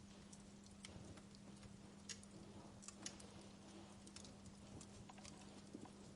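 Wood fire crackling in a fireplace: irregular small pops and snaps, a few sharper ones, over a soft hiss and a faint steady low hum.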